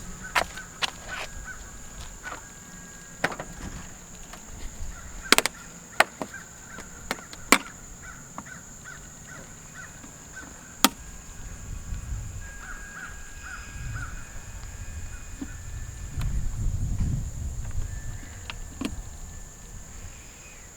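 Scattered sharp clicks and knocks, such as tools being handled during work on a car, over a steady high insect drone, with repeated short bird calls in the background.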